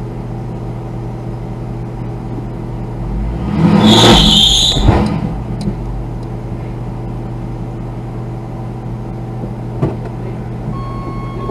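Car engine idling steadily, then revved for about two seconds as the car is driven to get it off where it is stuck, with a brief high squeal at the loudest point before it settles back to idle. A single click comes near the end.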